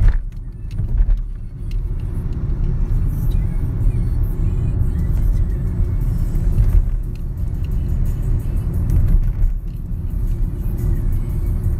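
Car driving, heard from inside the cabin: a steady low rumble of road and engine noise, with music playing in the background.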